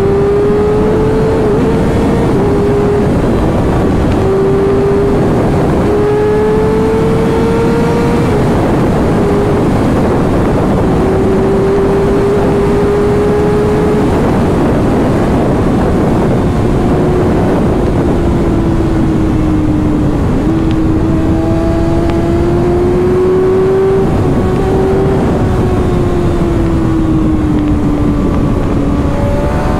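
Kawasaki inline-four sport bike engine running at a steady road speed, its pitch drifting gently up and down with the throttle and dipping briefly about two-thirds of the way through, over heavy wind rush.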